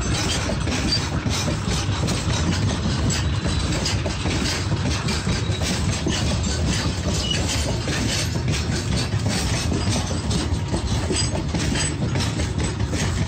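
Freight hopper wagons rolling past at close range: a steady rumble of steel wheels on the rails, with frequent clicks and clatter as the wheels cross the rail joints.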